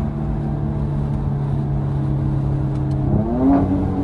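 Mercedes-AMG C43 engine running at steady revs, then rising sharply in pitch and getting louder about three seconds in as the car accelerates.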